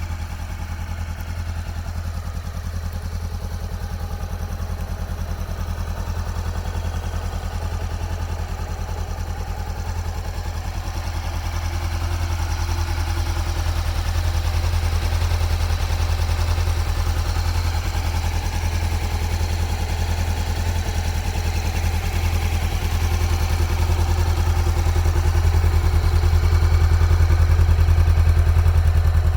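Motorcycle engine idling steadily, getting gradually louder over the stretch.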